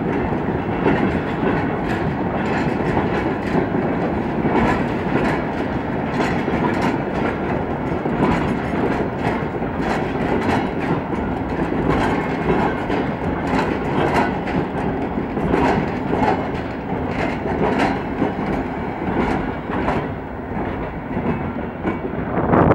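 Freight train of flat wagons loaded with concrete sleepers rolling past close by, its wheels clicking steadily over the rail joints. The sound eases a little near the end as the last wagons go by.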